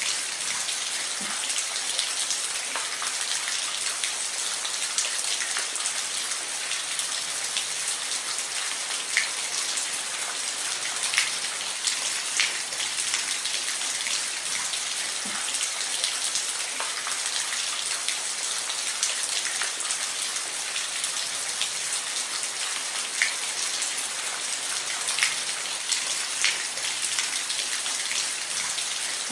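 Steady rain falling on a roof: a dense hiss with scattered, sharper drop ticks standing out now and then.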